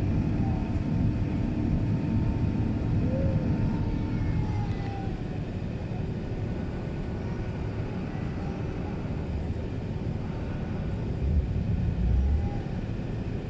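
Airbus A380 cabin noise in flight: a steady low rumble of the engines and rushing air, with a brief swell in the low rumble about eleven seconds in.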